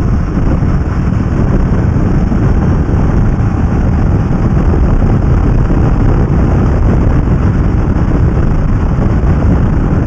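Steady rush of wind and road noise on a rider-mounted camera of a Kawasaki ER-6f motorcycle cruising at a steady speed, with no change in engine note.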